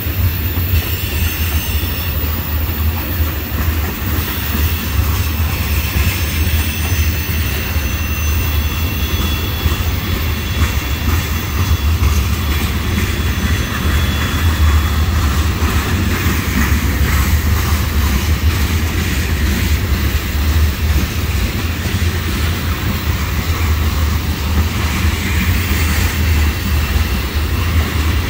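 Railroad tank cars of a freight train rolling past: a steady, heavy rumble of steel wheels on rail. Faint high-pitched wheel squeals come and go in the first half.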